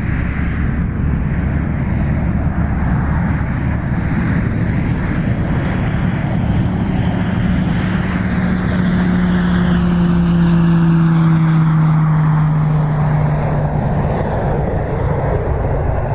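Propeller airplane passing close by with a loud, steady roar. Its propeller hum slides slightly down in pitch as it goes past, is loudest about two-thirds of the way through, then begins to fade.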